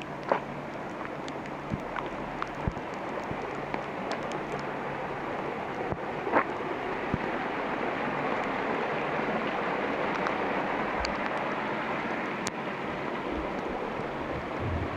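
Steady rain falling in a forest, a continuous hiss with scattered sharper drop hits, two of them louder, near the start and about six seconds in.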